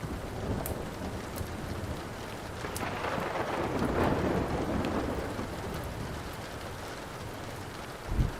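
Steady rain with a roll of thunder that swells and fades about three to five seconds in, over the scattered sharp pops of a crackling wood fire. A short low thump comes near the end.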